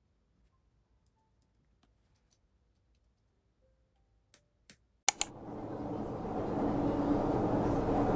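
A few sparse keyboard key clicks in a quiet room, then two sharp, louder clicks about five seconds in. Right after them a steady, low background rumble swells up and continues.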